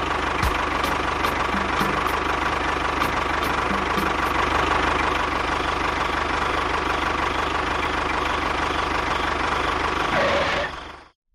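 Engine running steadily at a constant speed, cutting off abruptly near the end.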